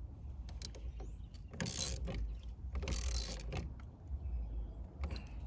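Socket ratchet tightening a steering wheel nut on a steering column, clicking in two spells of about a second each, with a few single clicks of metal tools.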